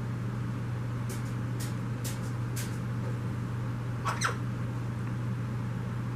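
Garden birds calling: four faint short chirps about half a second apart, then a louder pair of falling calls about four seconds in. Under them runs a steady splashing of the small water jet from a submerged pump, with a constant low hum.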